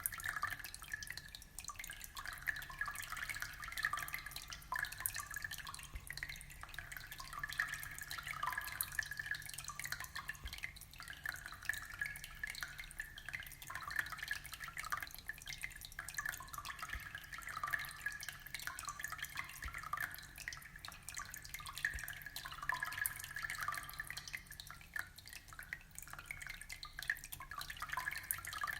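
Aquarium water trickling and dripping: a steady, dense patter of small drops and splashes with no pauses.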